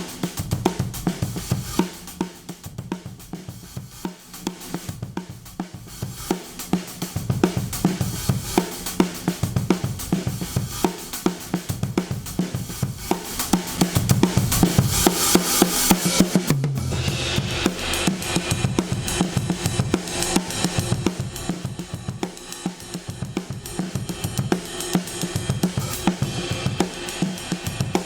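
A drum kit playing a steady beat of kick, snare, hi-hat and cymbals, heard through a modified DBX 119 compressor/expander. A cymbal wash builds in the middle and the sound changes abruptly about two-thirds of the way through.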